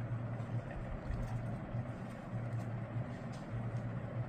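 Steady low hum with a noisy wash above it, and a few faint light clicks.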